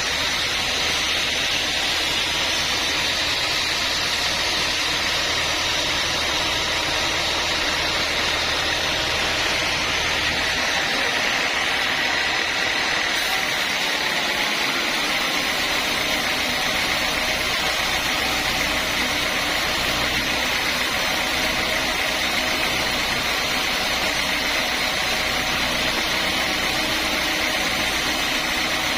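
Sawmill saw machinery running steadily, a loud, even high-pitched hiss over a low hum that fades for a few seconds midway and then returns.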